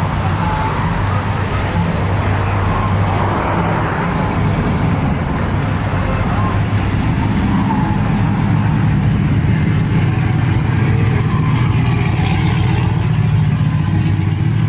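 Vehicle engines running with a steady low rumble, growing a little louder in the second half, with faint voices mixed in.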